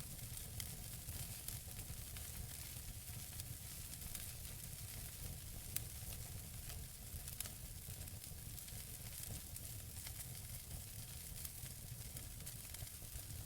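Wood fire burning in a fireplace: a steady hiss with many small, irregular crackles and pops from the burning logs, a sharper pop about six seconds in, over a low rumble.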